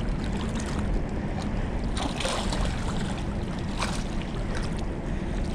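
Steady wind and water noise with a low rumble, broken by a few brief knocks about two seconds in and again near four seconds.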